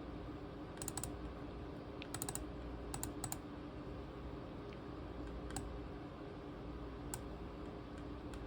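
Scattered clicks of a ThinkPad T23 laptop's keys and buttons, some in quick groups of two to four, over a steady low hum.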